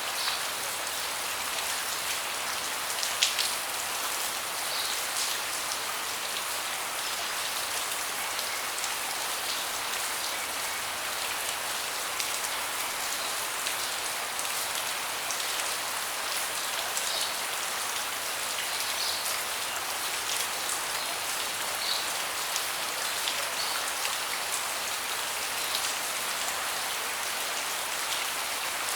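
Steady rain falling on a deck, an even hiss with scattered louder drops tapping close by; one sharper drop lands about three seconds in.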